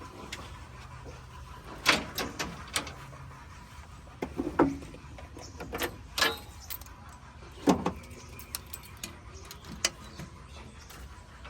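Engine running steadily at a low level in the background, with scattered sharp clanks and knocks, about eight of them, the loudest about two seconds in and again near eight seconds in.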